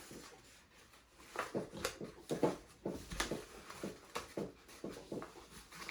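Origami paper being folded and creased by hand: short, irregular crinkles, rustles and taps of paper.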